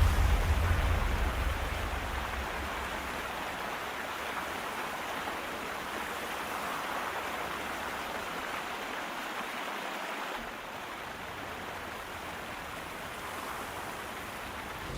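Steady rushing of running water, like a stream or small waterfall. A low rumble fades out over the first couple of seconds, and the rush drops a little in level about ten seconds in.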